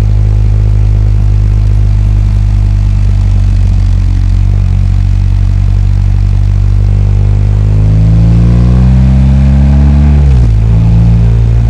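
BMW R 1250 GS boxer-twin engine running steadily at low revs. About eight seconds in, the revs climb for a couple of seconds, then drop sharply and settle.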